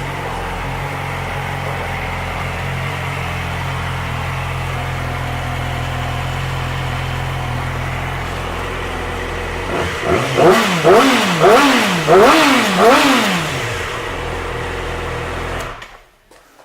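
A 2007 Yamaha YZF-R6's inline-four engine idling steadily, then revved in several quick throttle blips, its pitch rising and falling each time, before settling back to idle. The sound cuts off abruptly near the end.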